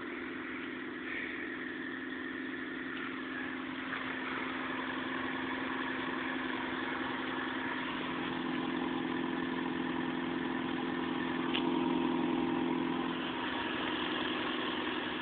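1996 Nissan Altima's 2.4-litre four-cylinder engine idling steadily just after a cold start, getting a little louder for a few seconds past the middle before settling back.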